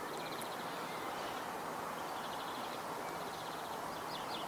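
Outdoor ambience: a steady rush of wind noise, with short runs of rapid high chirping in the background twice, near the start and about halfway through.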